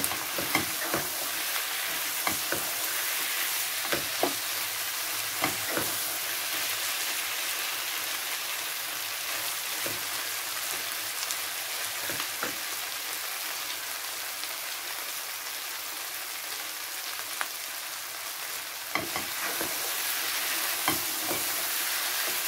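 Diced potatoes in spiced oil sizzling steadily in a non-stick frying pan while a wooden spatula stirs them. The spatula knocks and scrapes against the pan at scattered moments, most in the first few seconds and again near the end. This is the bhuna stage, frying the potatoes with the masala before any water goes in.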